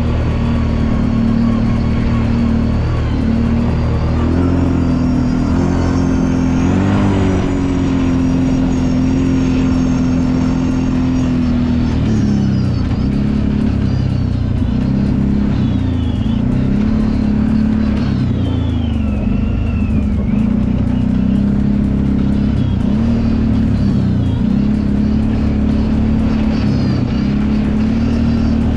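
Kawasaki Brute Force 750 ATV's V-twin engine running under changing throttle while trail riding. Its pitch climbs about four to seven seconds in, then dips and comes back up again and again through the second half.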